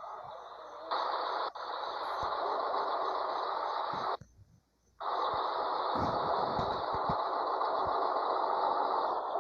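Steady hiss of compressed air from a Scania 111 truck's pneumatic system. It cuts off abruptly about four seconds in and resumes just under a second later.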